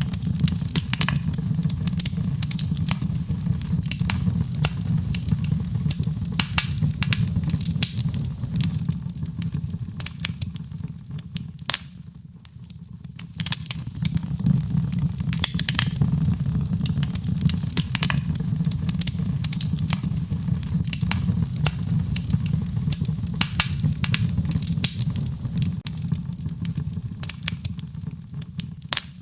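Fireplace fire crackling and popping steadily over a low rumble of flames, with a brief lull about twelve seconds in.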